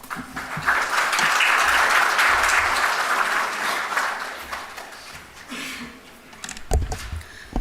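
Audience applauding, building up in the first second and fading away over the next four or five seconds. A few thumps follow near the end.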